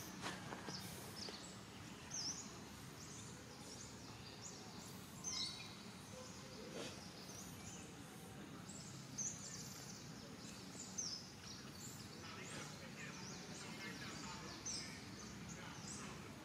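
Outdoor ambience: birds giving scattered short, high chirps every second or two over a steady background hiss.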